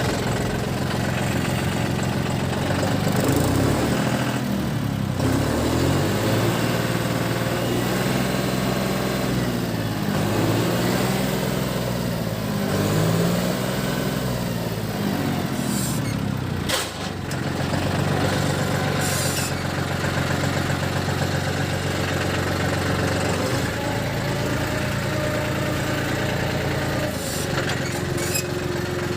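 John Deere 5310 tractor's three-cylinder diesel engine running, its speed rising and falling several times in the first half, then running steadily.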